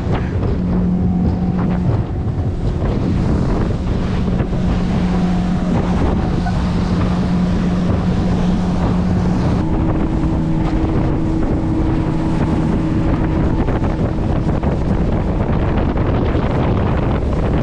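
Motorboat underway: a steady engine drone under heavy wind buffeting on the microphone and rushing water. The engine note changes about ten seconds in.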